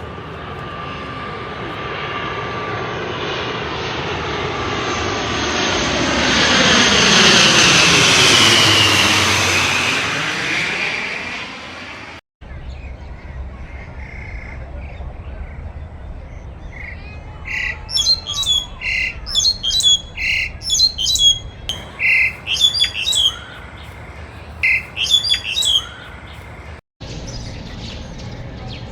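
An airplane passing low overhead: a roar that swells to a peak about eight seconds in and fades. After a cut, a bird calls with repeated short, high chirps in a run of about eight seconds.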